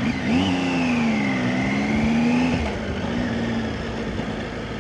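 Motorcycle engine running on the road, its note rising briefly about half a second in, then easing and holding steady before fading back, over a steady rush of wind and road noise.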